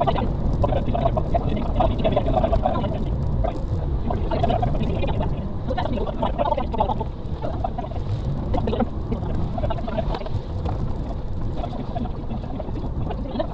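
Suzuki Carry kei truck's 660cc engine running under load while crawling over rough off-road ground, heard from inside the cab, with steady rumble and scattered knocks and rattles.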